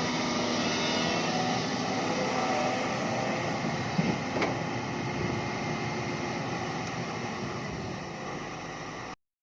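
Hyundai hydraulic excavator's diesel engine running steadily while it works, with a couple of sharp knocks about four seconds in. The sound cuts off abruptly near the end.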